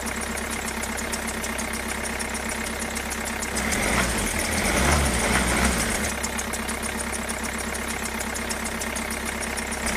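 A small motor running steadily with a rapid fine ticking and a low hum, swelling slightly about four to six seconds in.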